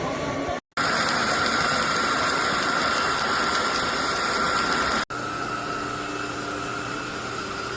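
SunSare X11 cordless stick vacuum running steadily, a rushing motor noise with a high whine, cutting out abruptly twice: once briefly under a second in, and for an instant about five seconds in.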